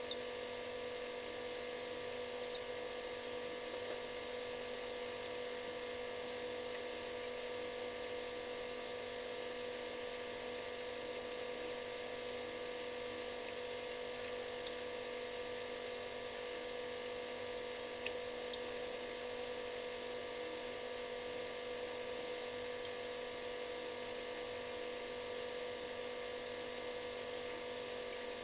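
Refrigerator running: a steady electrical buzz-hum with one strong mid-pitched tone and several fainter ones over a light hiss, with a single faint tick about eighteen seconds in.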